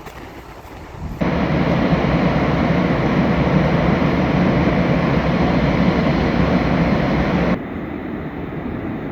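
Steady roar of rushing river water. It comes in abruptly about a second in and cuts off sharply about a second and a half before the end, leaving a quieter steady rush.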